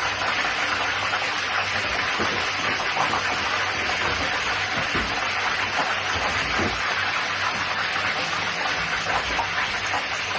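Steady rushing hiss of a kitchen tap running, with a couple of faint knocks.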